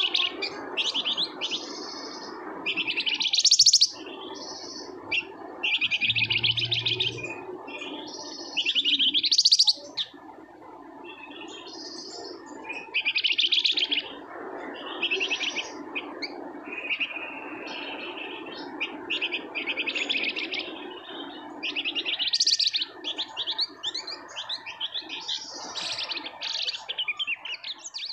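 Flamboyan songbird singing in fast, dense rattling trills (ngebren), one burst after another with short pauses, as an agitated bird does. A steady lower background noise runs underneath.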